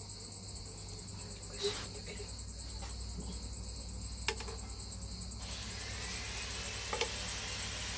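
Crickets chirping in a steady, rapid, even pulse, with a few faint clicks from handling in between.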